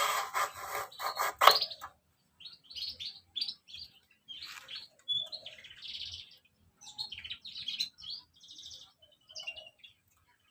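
Small birds chirping in a run of short, high calls, after a loud, rapid rasping sound in the first two seconds.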